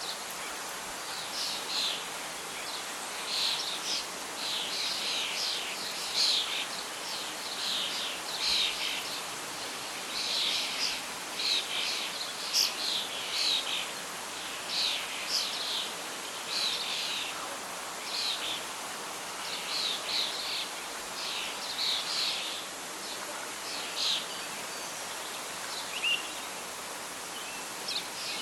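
Songbirds chirping in quick repeated bursts of short high notes over a steady hiss of wind through leaves.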